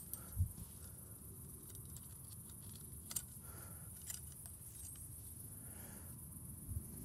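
Faint clicks and light metallic handling as small clips and a stainless-steel mesh are hooked onto a stainless-steel tube frame, with a soft low thump about half a second in and another near the end.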